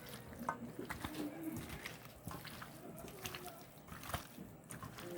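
Hands kneading and squeezing raw chicken pieces in a thick, wet spice marinade: a run of irregular wet squelches and slaps.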